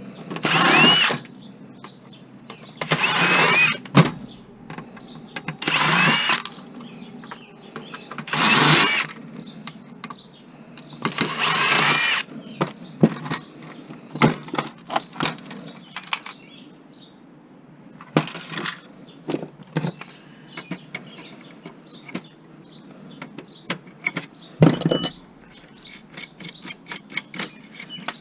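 Cordless drill-driver spinning in short bursts of about a second each, about six times, each with a brief rising whine as it backs screws out of an electronics casing. Near the end come scattered metal clicks and clinks of the screws and parts being handled.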